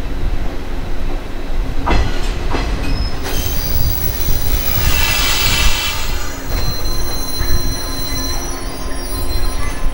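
Shinano Railway 115 series electric train pulling slowly into the station: low rumble, wheels clicking over rail joints about two seconds in, then a high-pitched squeal from about three seconds in as it slows to a stop. The squeal is loudest in the middle and fades toward the end.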